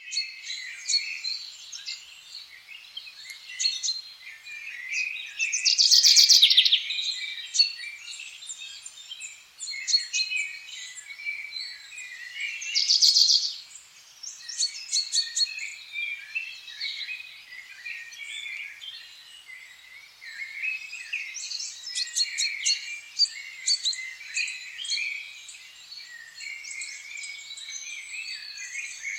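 Several birds singing and calling at once, a steady mix of chirps and warbles, with two louder rapid trills about six and thirteen seconds in.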